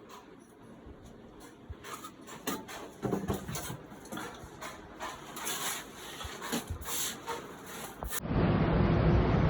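Irregular light knocks and clicks, then, about eight seconds in, an abrupt switch to a loud, steady rushing noise.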